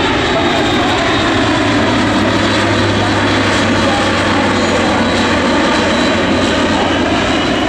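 Airbus A400M Atlas's four turboprop engines and eight-bladed propellers running steadily and loudly in flight, with a low hum that fades out about five seconds in.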